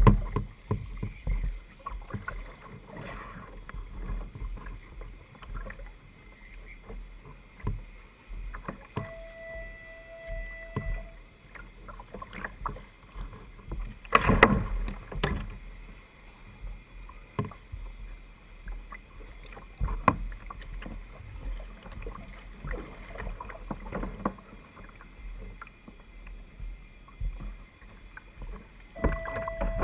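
Knocks and water splashing around a fishing kayak at sea, irregular throughout, with wind rumble on the microphone. There is a louder knock about fourteen seconds in and a brief steady tone a few seconds before it.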